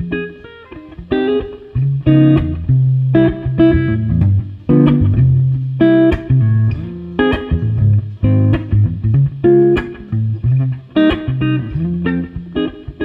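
1972 Gibson Les Paul Custom electric guitar on its neck humbucker, played clean through a Fender Blackface-style amp tone with compression and slapback reverb: a steady run of picked notes and chords in a jazzy style.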